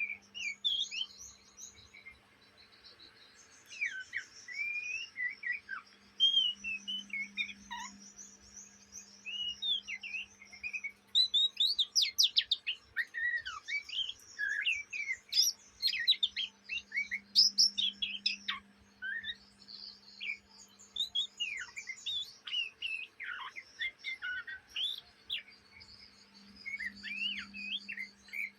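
Young oriental magpie-robin twittering ('ngriwik'): a long, continuous run of quick, varied chirps and short up-and-down whistled sweeps with brief pauses. This is the chattering sub-song of a juvenile bird that is still learning to sing.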